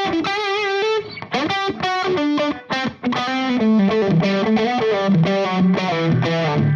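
Electric guitar played through the drive side of a Valco Bloodbuzz pedal with the gain turned up, giving an overdriven tone. A held note with vibrato comes first, then a few separate picked notes, then a steady riff on lower notes from about three seconds in.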